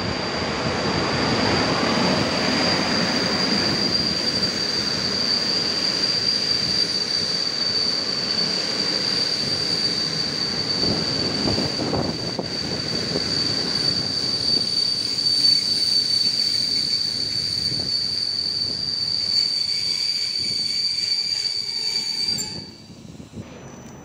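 Passenger train running on the rails with a steady high-pitched wheel squeal over the rumble of the wheels and cars. The sound drops away abruptly near the end.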